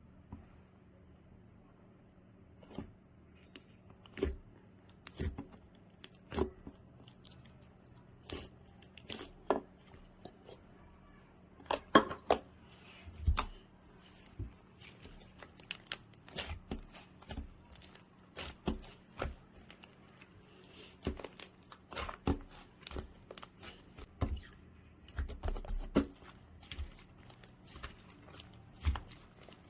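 Soft clay-mixed slime being squeezed, folded and stretched by hand, giving irregular sticky pops and crackles, sometimes several in quick succession.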